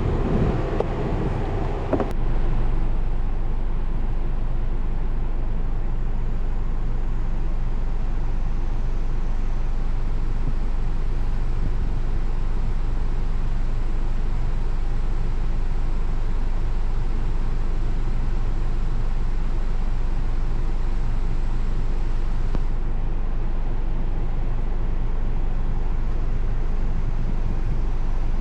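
Nissan Serena C25's engine running steadily at idle after fresh spark plugs and ignition coils. About two seconds in there is a sharp click, and the sound settles into an even low hum.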